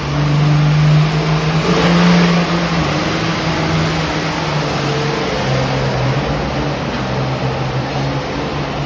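Turbocharged diesel engine of a Super Farm class pulling tractor running hard under load on its pull. It is loudest in the first couple of seconds, with the pitch stepping up about two seconds in, then holds steady.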